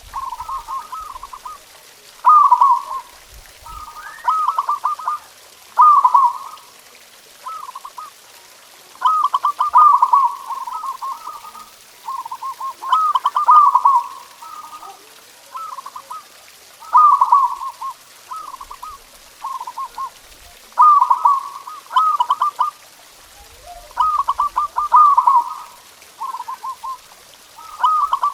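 Zebra dove (perkutut) cooing over and over, each phrase a quick stutter of short notes running into a longer coo, repeated about every one to two seconds.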